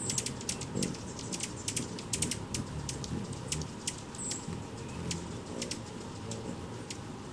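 Hummingbird chip calls: sharp, high ticking notes at an uneven pace, several a second at times, with a couple of short squeaky notes, over a low background rumble.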